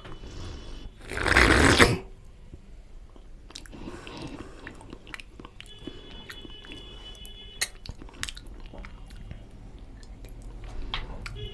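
Close-miked eating of mutton nalli curry with rice: chewing and biting with many small wet mouth clicks, and a loud burst of noise lasting about a second near the start.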